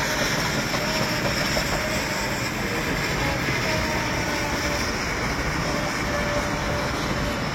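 Electric commuter train running at a steady speed: a constant rumble and roar of wheels and running gear, with a faint whine.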